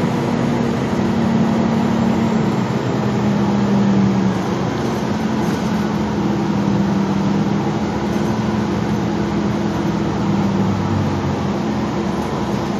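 Gillig Low Floor transit bus engine running, a steady hum whose pitch shifts a few times as the bus changes speed.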